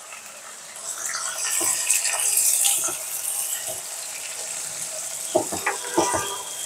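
Garlic, onion and Malabar spinach sizzling in hot oil in a nonstick saucepan, the hiss swelling about two seconds in. A silicone spatula stirs the leaves, knocking against the pan several times near the end.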